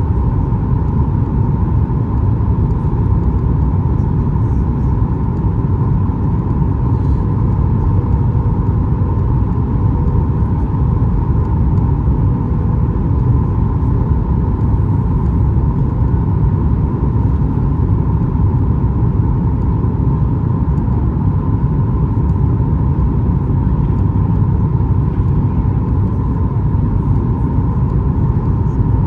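Steady cabin noise of a Boeing 737 MAX 8 in flight: a deep engine and airflow rumble with a constant hum over it, no change in level.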